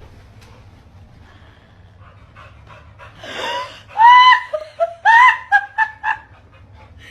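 A dog giving a run of high whining yelps, starting about four seconds in: a few longer rising-and-falling cries, then shorter notes, after a breathy huff.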